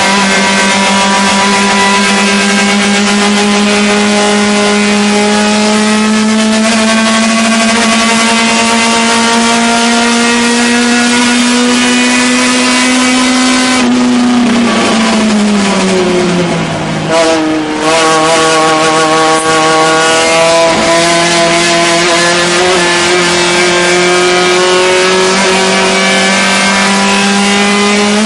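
Fiat 128 race car's four-cylinder engine at high revs, heard from inside the cabin. Its pitch climbs slowly through a long pull, then about halfway the revs drop sharply and the sound dips for a moment. After that the engine pulls again, its pitch climbing slowly.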